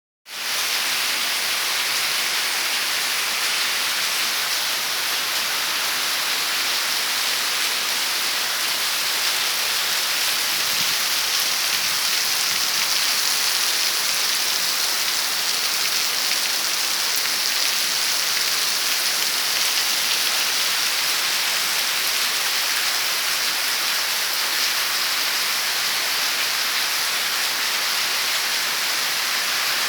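Heavy rain falling steadily, a dense, even hiss of drops on hard surfaces.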